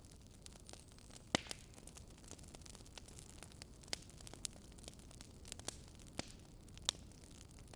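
Campfire crackling: a steady soft hiss with sharp, irregular pops and snaps of burning wood, a few of them louder.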